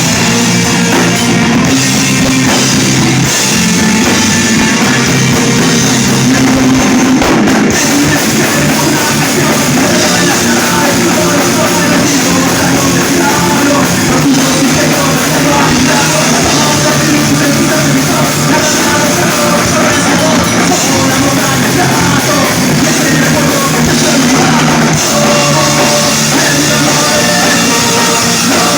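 Live rock band playing loudly, with a drum kit driving the song and a singer.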